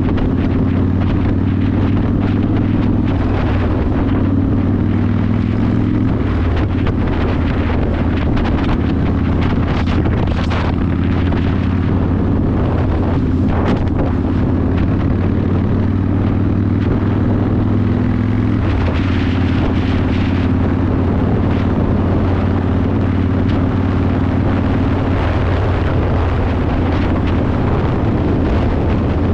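Yamaha Warrior 1700's air-cooled V-twin running through a custom exhaust while riding, its note changing pitch a few times, with wind noise on the microphone.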